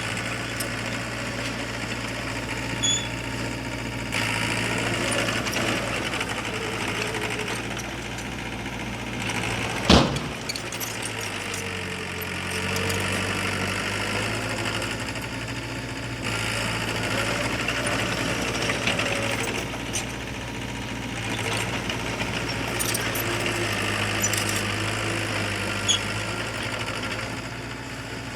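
Heavy construction machinery's diesel engine running under changing load, its pitch and level stepping up and down several times. There is one sharp knock about ten seconds in.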